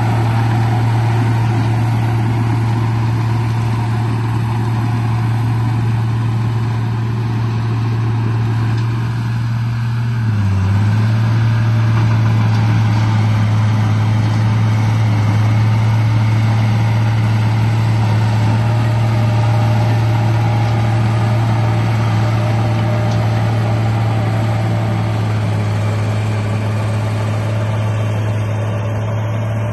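Steady engine-like drone from the RC bulldozer, a strong low hum that dips briefly in pitch about ten seconds in, then holds steady again.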